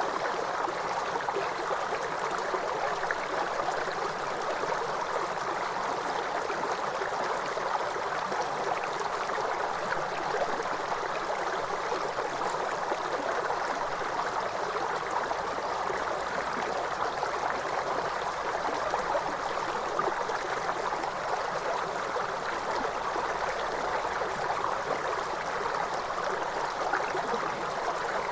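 Water from a cascading waterfall rushing and splashing steadily, with no let-up or change.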